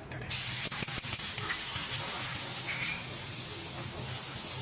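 Food frying in hot oil: a steady sizzling hiss that starts suddenly just after the start, with a few sharp clicks.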